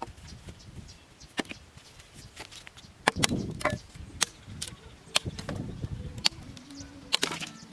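Irregular sharp knocks and chopping strokes, about a dozen spread unevenly, as of bamboo being cut and worked with a hand tool.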